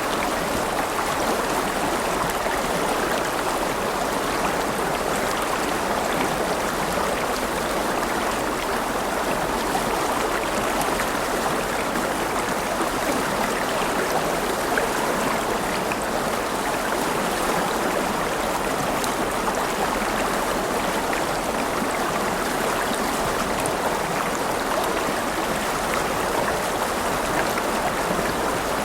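River water flowing over rocks, a steady rushing babble with no pauses.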